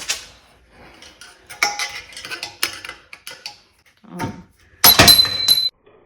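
Metal tools clinking and tapping on a bicycle headset bearing race while someone tries to knock the stuck race out. It goes as a scatter of light clicks, a duller knock, then a louder ringing metal clatter near the end that cuts off abruptly.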